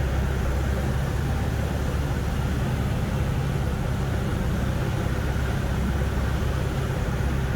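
Light training aircraft's piston engine running steadily, heard from inside the cockpit as a low drone with rushing air noise over it.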